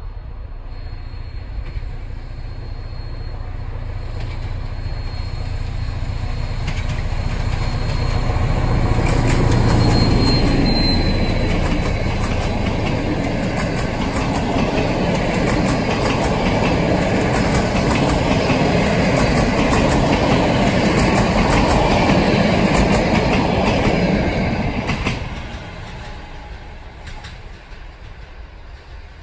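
A PKP SM42 diesel-electric locomotive hauling a passenger train passes by. Its engine grows steadily louder as it approaches and peaks about ten seconds in. The carriages' wheels then click over the rail joints for some fifteen seconds before the sound falls away near the end.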